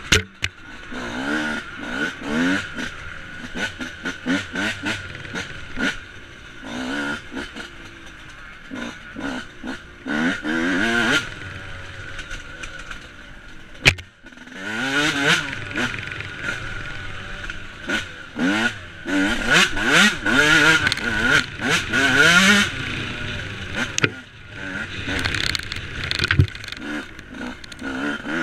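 Yamaha YZ125's two-stroke single-cylinder engine under race load, repeatedly revving up in rising glides and dropping off between them as the rider accelerates and backs off. Sharp knocks from the bike jolting over the rough track run through it, all heard from a helmet-mounted camera.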